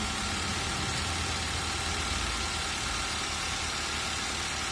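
Car engine idling steadily, a continuous even hum with no breaks.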